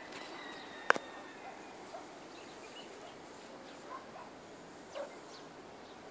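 Scattered short bird chirps over faint outdoor ambience, with one sharp click about a second in.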